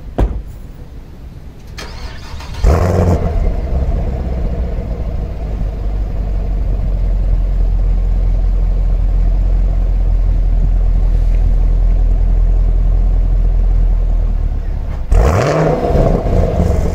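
A car door shuts, then the 2020 Chevrolet Camaro SS's 6.2-litre LT1 V8 cranks, fires with a loud flare and settles into a steady idle through its stock dual-mode (NPP) exhaust. About fifteen seconds in, the engine is revved once and drops back to idle.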